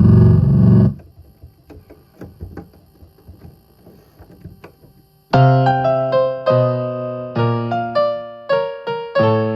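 Electronic keyboard demonstrating its voices: a loud held tone cuts off about a second in, followed by a few seconds of faint clicking. From about halfway through, an electric-piano voice plays a string of separate notes, each struck and fading.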